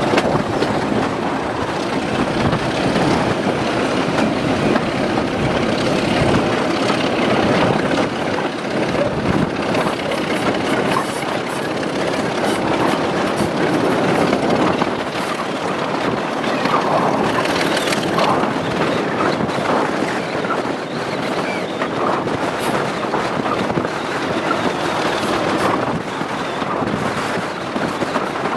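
Train running on the rails: a steady rumble of wheels on track, with occasional faint clicks.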